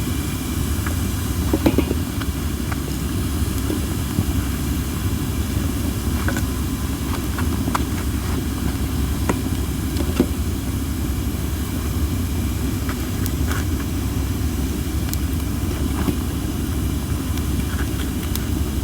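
Cherry-wood campfire burning: sparse sharp crackles and pops over a constant low rumble and a hiss. The hiss comes from the wood not being dried enough, together with a strong wind.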